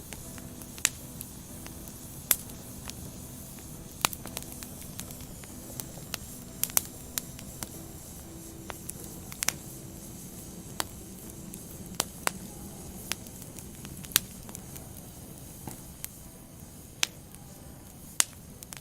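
Burning firewood: a steady hiss with irregular sharp pops and crackles, a few of them much louder than the rest.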